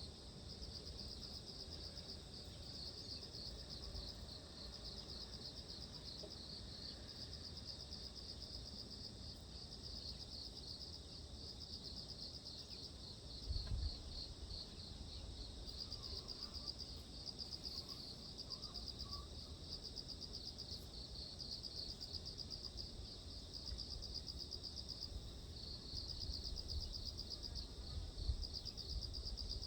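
A continuous chorus of insects, crickets or similar, trilling in a fast pulsing high-pitched buzz, over a low rumble with a brief bump about halfway through.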